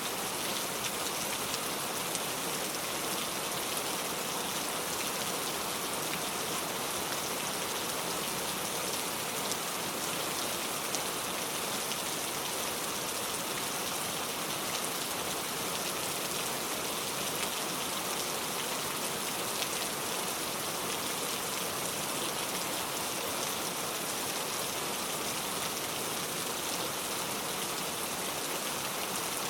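Steady heavy rain falling and pattering on surfaces, a dense even hiss of many small drop ticks.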